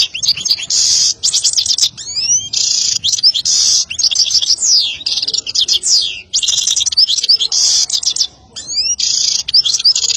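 European goldfinch singing a loud, fast, twittering song of rapid trills, quick sweeping notes and buzzy stretches. The phrases are broken by brief pauses about two, six and eight seconds in.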